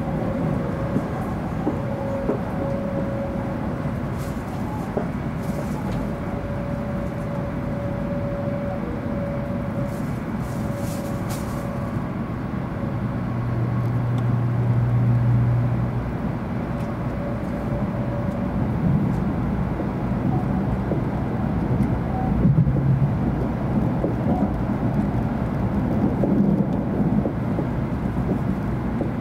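Interior running noise of a 700 Series Shinkansen heard from a passenger seat: a steady rumble with a faint steady tone through the first half and a low hum that swells briefly around the middle.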